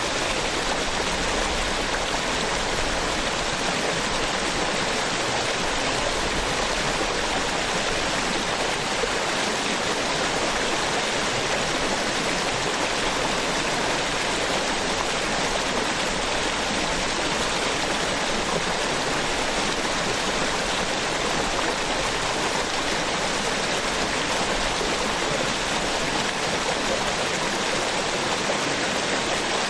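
Small waterfall on a stream, water splashing and rushing in a steady, even wash.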